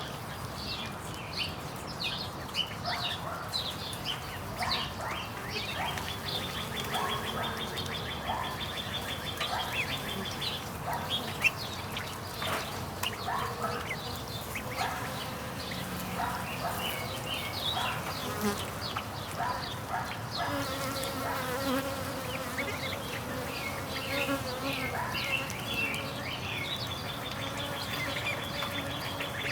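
Italian honey bees buzzing around a hive entrance, with single bees droning close past so the pitch of the buzz wavers up and down.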